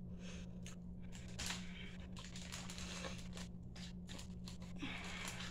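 Someone chewing a bite of soft-baked macadamia nut cookie with the mouth closed: faint, irregular small clicks and crackles of chewing, over a steady low hum.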